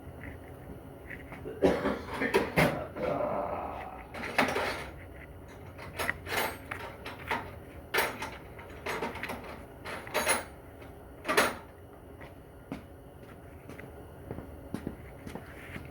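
Scattered clanks and clicks of hand tools and sockets being handled and tried on a transmission bolt, with a busy cluster of knocks early on and single sharp hits every second or two after.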